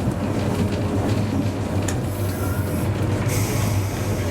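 Hakodate city tram car No. 530 running, heard from the driver's cab: a steady low rumble of the motors and wheels on the rails, with two stretches of high hiss about two seconds in and again near the end.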